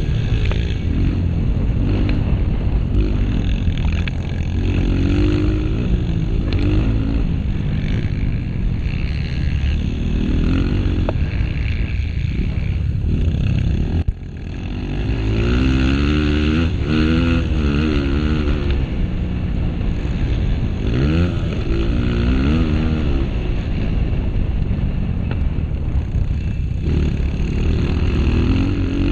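Honda CRF230's single-cylinder four-stroke engine, heard onboard, revving up and falling back again and again as the rider opens and closes the throttle. About halfway through the sound drops away sharply for a moment, then the engine picks back up.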